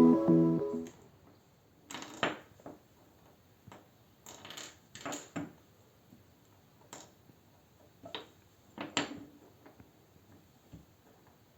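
Background music ending in the first second, then a scattering of small, sharp clicks and clinks of objects being handled, some in quick pairs.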